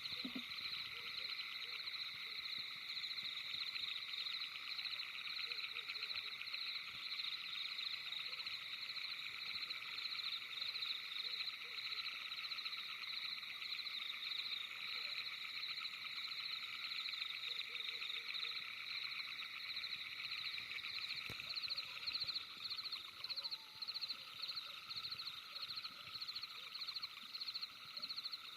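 Dense night chorus of frogs and insects: several fast, steady pulsing trills at different pitches, one over another, with no let-up.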